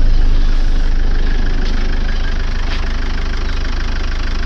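Jeep Wrangler Unlimited's 2.8 CRD four-cylinder common-rail turbodiesel idling steadily just after a cold start at −16°. The engine is still cold, and the idle eases down a little in the first couple of seconds.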